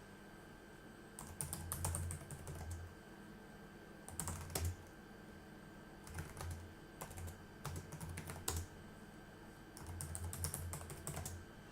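Typing on a computer keyboard in short bursts of keystrokes with pauses between them.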